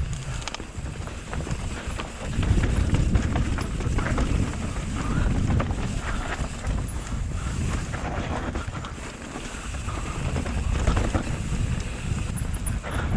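Mountain bike riding down a rough, steep dirt trail, heard from a bike-mounted or body-mounted action camera: wind buffeting the microphone, tyres rumbling over the ground and the bike rattling and clattering over bumps, louder from a couple of seconds in.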